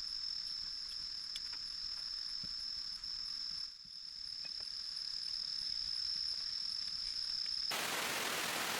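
Insects trilling in one steady, unbroken high tone over a faint hiss. Near the end it cuts suddenly to a loud, even hiss of heavy rain.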